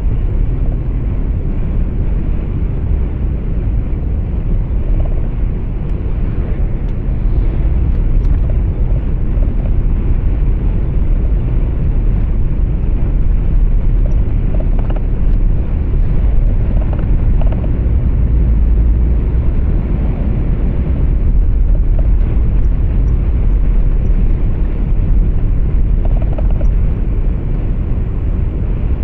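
Heard inside a truck's cab: a steady, deep rumble of engine and road noise while the truck is under way, with no sharp events.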